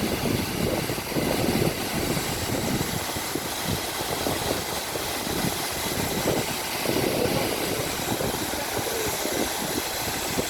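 A vehicle's engine running with an uneven low rumble.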